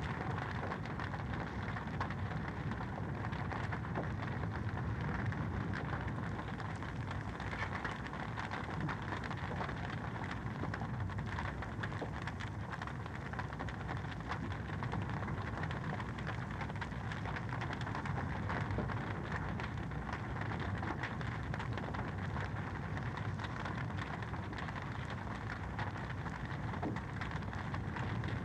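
Wood fire in a fireplace crackling steadily: a dense run of small crackles and pops over a soft low rumble.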